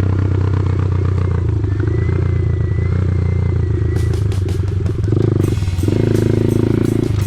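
Dirt bike engine running steadily, with sharp clattering knocks about four seconds in and again near the end.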